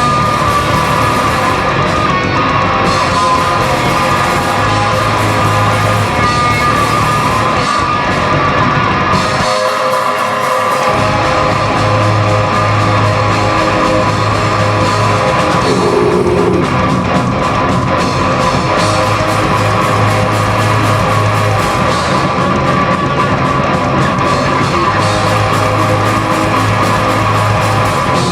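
Live rock band playing loud heavy rock, with guitar, bass and drums. The bass and drums drop out for about a second roughly ten seconds in, then come back.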